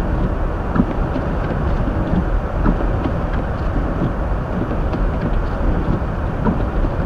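Steady rumble of a 2023 Hyundai Elantra driving slowly on a snow-covered road, heard from inside the car: tyre and road noise with the engine under it, and a few faint ticks.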